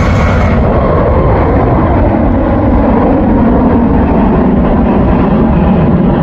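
Jet airliner's engines at high power on its take-off run, a loud steady rumble.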